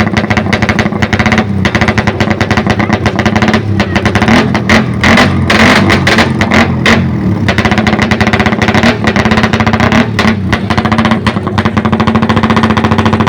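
Motorcycle engines running loudly at close range, a rapid stream of firing pulses with the level swelling around the middle.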